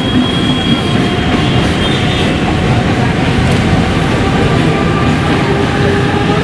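Mumbai suburban EMU local train running past on the tracks below, a steady loud rumble of wheels on rails, with a faint high whine over it during the first couple of seconds.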